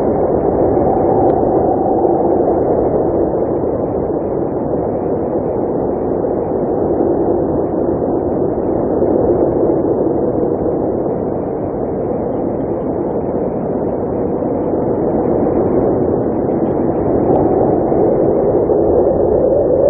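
Blizzard wind blowing steadily, a dense rushing noise that swells and eases slowly, its pitch drifting up and down.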